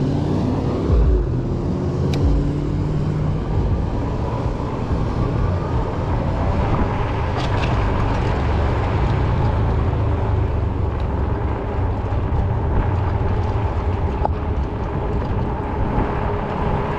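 Ecotric 20-inch folding fat-tire e-bike riding along: steady rolling and wind noise with a faint steady whine.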